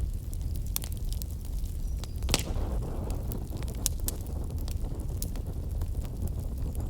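Wood fire burning in a fireplace, crackling with scattered sharp pops over a low, steady rumble of the flames. One louder pop comes a little over two seconds in.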